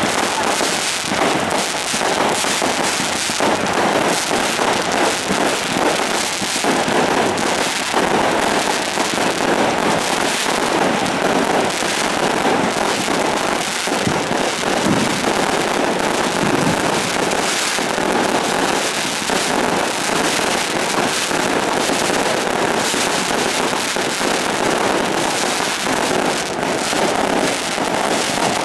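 Firecrackers and fireworks going off in a dense, unbroken crackle of many rapid bangs, steady in loudness throughout.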